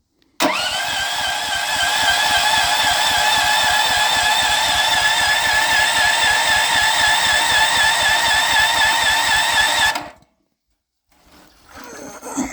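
Electric starter motor cranking the Honda 15 HP engine for about ten seconds, energised through a jumper wire that bypasses the key switch: a steady whine over a fast, even chug of compression strokes. The engine does not fire, and the cranking cuts off suddenly.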